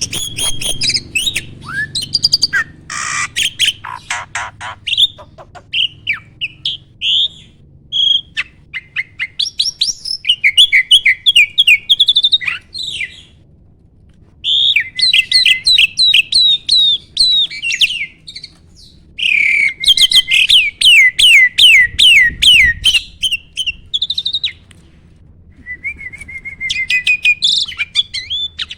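A starling (jalak) singing in long, loud phrases of rapid chattering trills and whistles, broken by two brief pauses.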